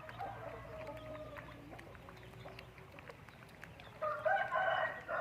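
Chickens calling: faint drawn-out calls in the first few seconds, then a louder rooster crow starting about four seconds in.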